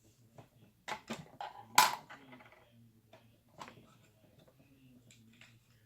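A few light clicks and knocks of small things being handled, the loudest just under two seconds in, over a faint low hum.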